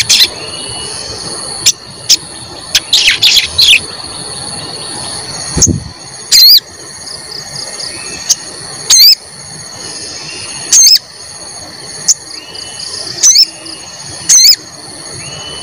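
Sogon bird giving sharp, repeated high "cuit cuit" calls, short loud notes about every one to two seconds over a steady high insect drone.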